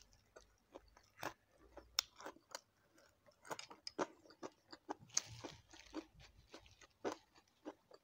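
Crispy deep-fried chicken feet being bitten and chewed: irregular sharp crunches of the fried coating between quieter chewing.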